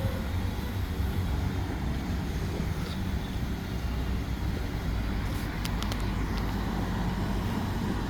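Steady rumble of street traffic, with a few short clicks about five and a half to six and a half seconds in.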